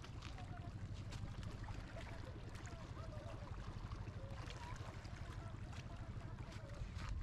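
Steady low rumble of wind on the microphone, with scattered faint clicks and faint wavering sounds in the background.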